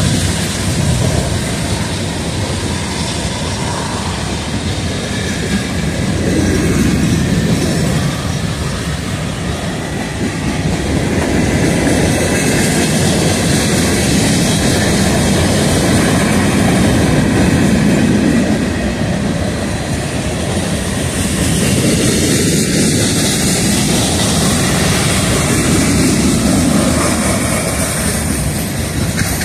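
A CSX rock train's hopper cars rolling past close by, their steel wheels running on the rails in a steady loud rumble that swells and eases every few seconds.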